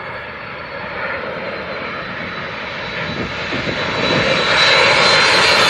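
Airliner on final approach coming in low overhead to land, its engine noise growing steadily louder with a steady high whine.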